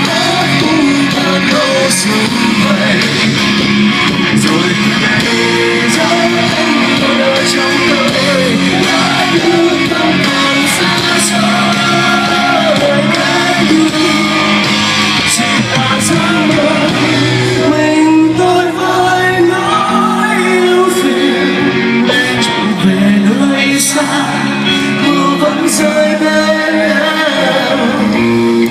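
Rock band playing live, with guitar and singing.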